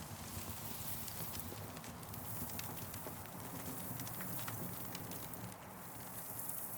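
Wood campfire crackling, with scattered irregular pops and snaps over a steady low rush of burning.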